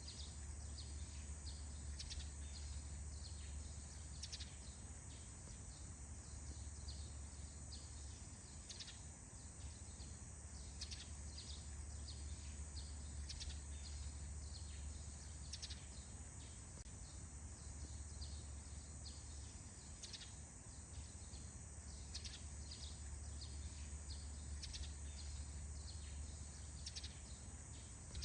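Birds chirping in a forest at dawn: many short, high calls that slide downward, a few each second, over a steady low rumble.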